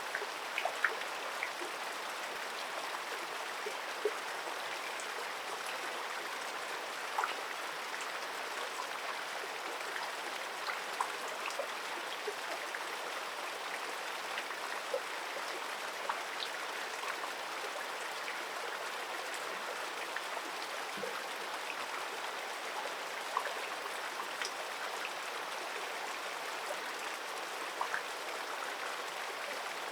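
Steady rushing of flowing stream water, with scattered faint ticks and drips.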